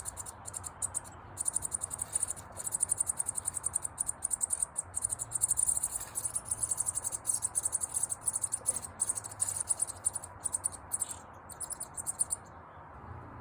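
Cricket chirping in a high-pitched, rapid pulsing trill with brief breaks, stopping about a second before the end.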